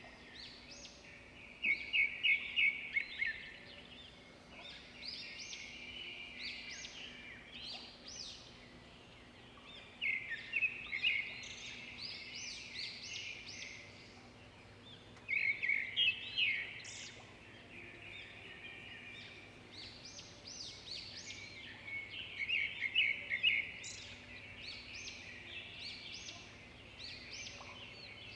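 Swiftlets twittering: bouts of rapid, dry chirping trills a couple of seconds long, recurring every six to eight seconds, with a faint steady hum underneath.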